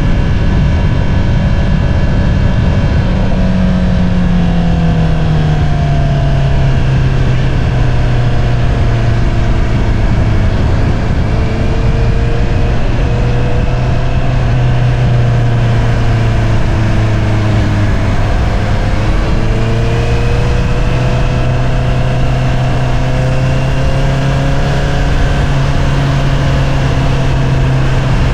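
2022 Honda CBR650R inline-four running through an Akrapovič single-outlet exhaust while riding. The engine note falls over the first few seconds as the revs drop, then holds fairly steady at cruising revs, with a slight dip and pick-up about two-thirds of the way through.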